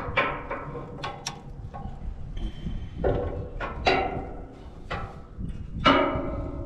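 Wrench work on the wood chipper's blade bolts: a string of sharp metallic clicks and a few short ringing squeaks as the bolts are turned and tightened, one of them found loose.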